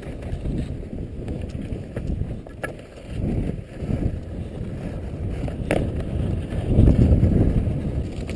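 Wind buffeting the microphone as a rising and falling low rumble, loudest about seven seconds in, with a couple of faint clicks.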